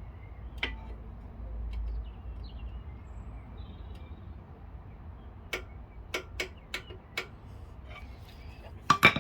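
Sharp metallic clicks and taps: one early on, a run of about five in under two seconds past halfway, and a louder clatter near the end. These come from the old brake pad and metal tools being worked against the front brake caliper to push a stiff piston back.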